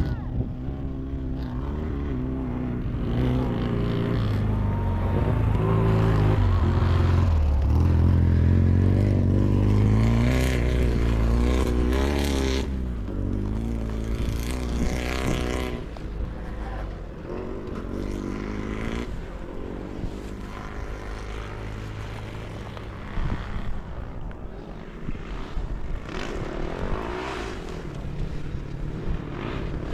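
Racing sidecar motocross motorcycles revving hard and changing pitch as they run. The engine noise swells to its loudest a few seconds in, then falls back to a lower, busier mix of engines.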